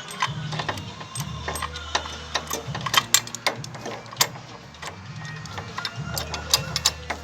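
Irregular metallic clicks and knocks of a wrench and hand tools working loose an engine-mount nut and bolt.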